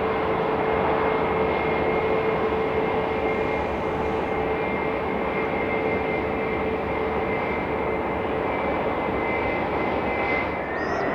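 Aircraft engines running steadily, a dense rushing noise with a steady whine in it. Near the end a second whine starts and rises in pitch.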